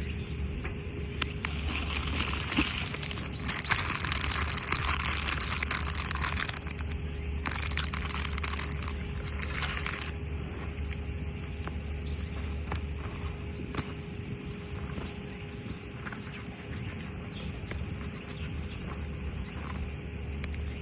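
Autumn crickets trilling steadily in a high, even tone that fades out near the end. A rustling hiss rises and falls between about two and ten seconds in, with scattered faint clicks.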